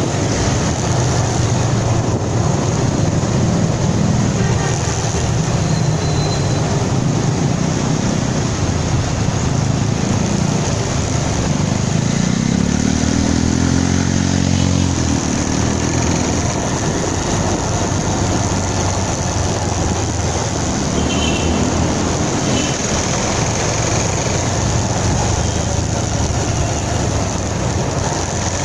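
Motorcycle riding along a road, with steady engine, wind and road noise. About twelve seconds in, an engine revs up, rising in pitch for a few seconds before dropping away.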